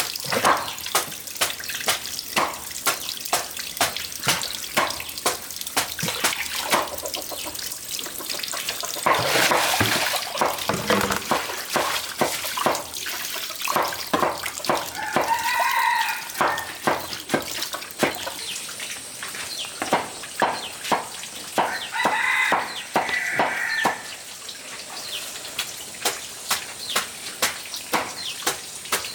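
Steady rhythmic knocking, about two sharp strikes a second, with a rooster crowing twice in the background, about halfway through and again some seven seconds later. A brief rush of noise comes about nine seconds in.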